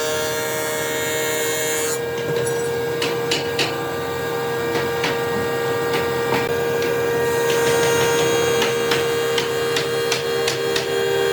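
A woodworking power tool's electric motor running with a steady hum, with scattered clicks and knocks of wood and tool being handled.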